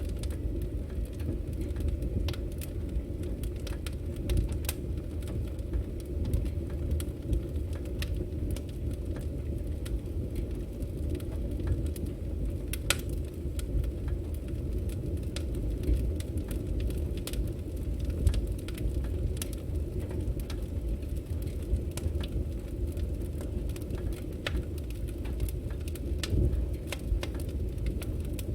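Firewood burning steadily: a low rumble of the fire with irregular crackles and small pops from the logs, one sharper pop about midway.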